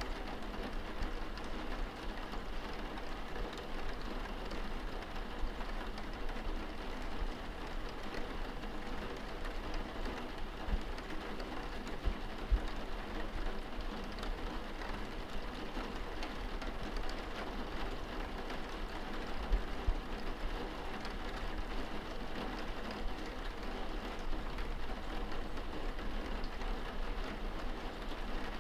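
Steady rain heard from indoors, pattering on a window, with scattered drop taps and a few soft low thumps.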